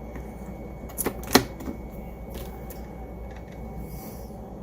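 Clicks and taps of small plastic Roomba parts being handled: two sharp clicks about a second in, then a few faint ticks and a brief rustle near the end.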